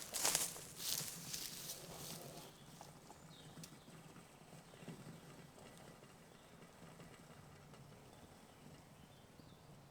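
Footsteps on the forest floor, a few sharp steps about half a second apart that grow fainter over the first two seconds, then quiet woodland background.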